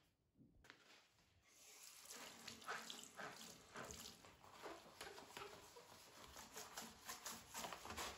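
Faint water running and splashing at a sink, with uneven splashes and clatter, coming in about a second in after a near-silent start.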